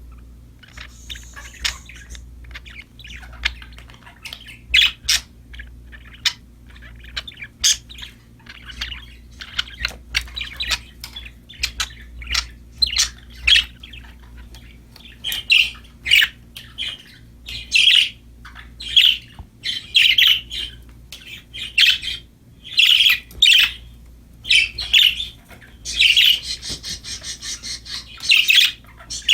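Budgerigars (parakeets) chirping and chattering in quick, short calls that grow louder and more frequent in the second half, with a denser burst of chatter near the end.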